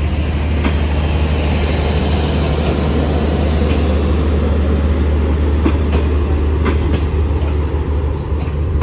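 Passenger train rolling along the platform as it pulls out, with a steady low hum and irregular sharp clicks of wheels crossing rail joints.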